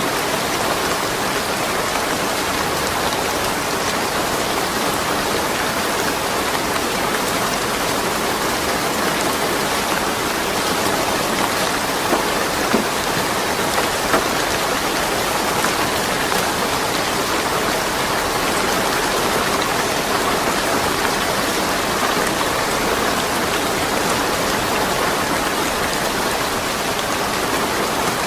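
Steady rain falling on surfaces, an even hiss of many drops with a few louder single drops standing out partway through; no thunder.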